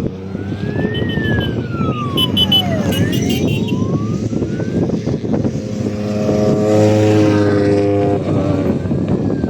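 Rally car engine at racing revs, its pitch rising and falling repeatedly as it accelerates and shifts, climbing hard again about six seconds in.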